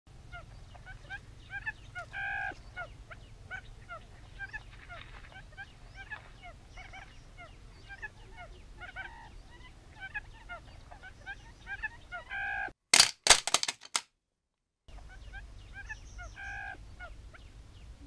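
Birds chirping over and over in quick short notes, with a louder honking call every few seconds. About two-thirds of the way through there is a burst of loud clicks, then about a second of complete silence before the chirping resumes.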